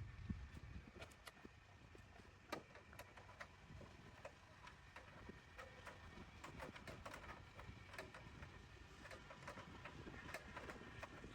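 Faint, irregular light clicks and taps over a low background rumble.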